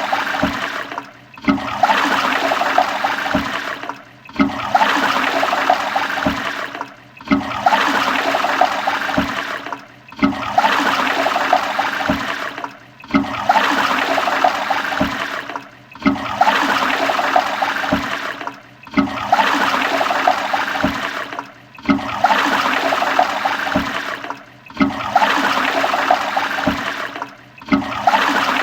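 Toilet flushing, a rush of gurgling water, as a short stretch of about three seconds played over and over with a brief dip between repeats.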